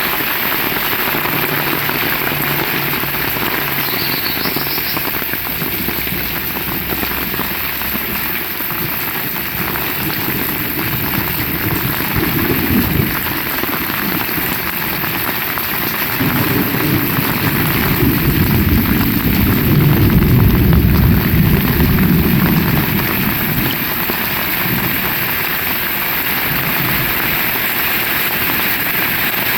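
Heavy rain falling steadily, a dense even hiss of drops on surfaces. About halfway through a low rumble swells for several seconds, the loudest part, then fades.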